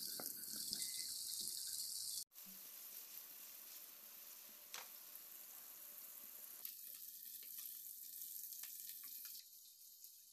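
Paneer cubes frying in hot mustard oil: a steady sizzling hiss with a few faint pops, cutting out for an instant about two seconds in.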